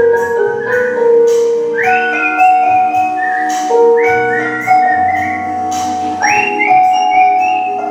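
Artistic whistling of a song melody over a recorded instrumental backing track; each high whistled phrase swoops up into its note and is held for about a second.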